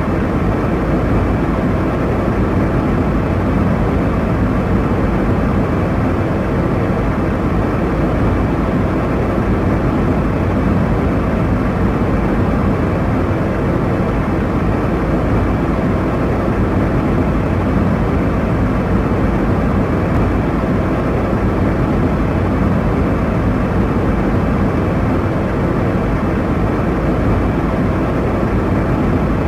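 Airliner in flight: a steady, even rush of engine and airflow noise that holds the same level throughout.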